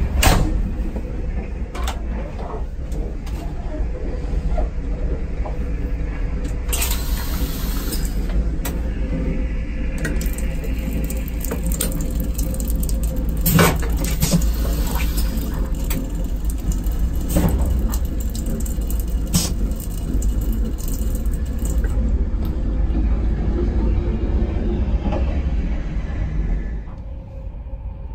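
Steady low rumble of a moving Intercity (ICR) coach heard from inside its toilet compartment, with scattered sharp knocks and clicks and a brief hiss about seven seconds in. The tap runs into the steel washbasin, and the sound drops in level near the end.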